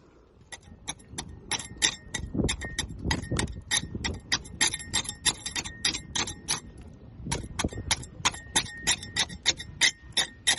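Scraper chipping barnacles off a boat hull: a rapid run of sharp clicks and scrapes, about five a second, pausing briefly near the middle.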